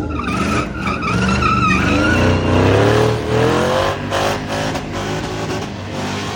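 Car engine revving with its pitch climbing, over tires squealing and skidding as in a burnout.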